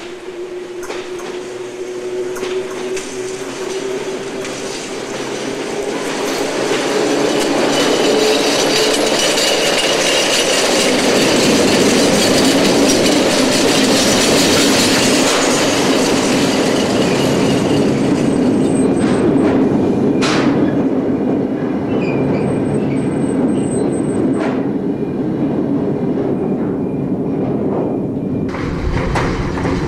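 Train rolling past on industrial track, growing louder over the first ten seconds as it comes near. About two-thirds of the way through, the wheels give short high squeals and there are a few sharp knocks.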